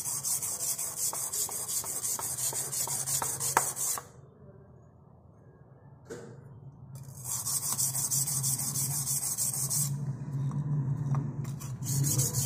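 Sandpaper rubbing on a wooden door in rapid, even strokes. It stops for a few seconds about four seconds in, then starts again, with another short break near the end.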